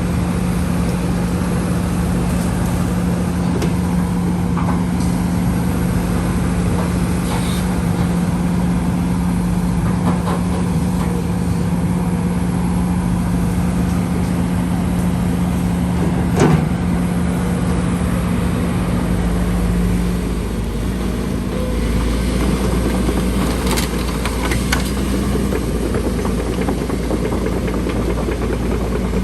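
Diesel engine of heavy earthmoving machinery running steadily. A single sharp knock comes about halfway through. The engine note shifts about two-thirds of the way in, getting a deeper rumble.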